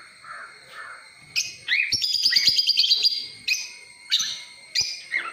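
Caged pet birds chirping: a string of short, high calls, with a fast run of twittering about two to three seconds in.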